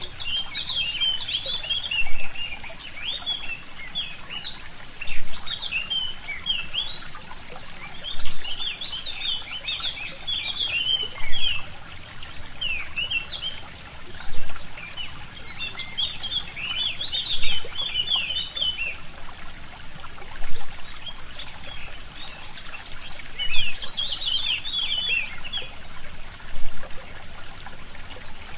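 Forest songbirds chirping in bursts of quick, high notes over a steadily trickling stream. A low pulse comes about every three seconds.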